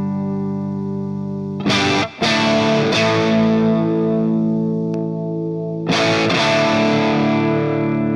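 Electric guitar played through a DemonFX Jan Ray overdrive pedal and a NUX Amp Academy amp modeller, lightly distorted chords strummed and left to ring. New strums come about a second and a half in, with a brief cut just after, and again near six seconds.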